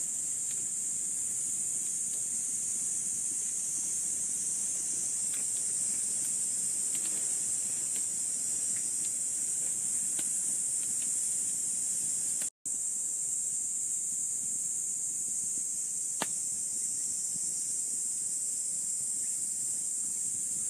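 Steady high-pitched chorus of insects such as cicadas or crickets, with a few faint clicks and taps scattered through. The sound cuts out for a moment about twelve seconds in.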